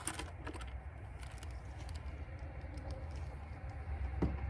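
A few faint clicks and light handling noises, likely the removed valve cover being handled and turned over, over a low steady rumble.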